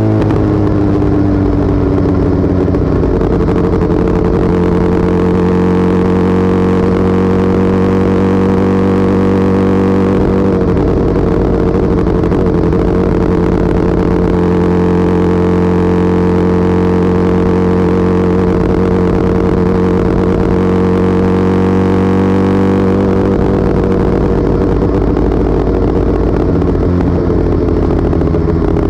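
Motorcycle engine running at a steady cruising speed. Its pitch holds nearly level and eases down slightly about two-thirds of the way through.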